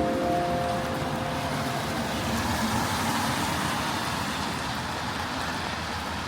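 Heavy rain with road traffic passing on the wet street, a steady hiss of rain and tyres that slowly eases. A few held tones fade out about a second in.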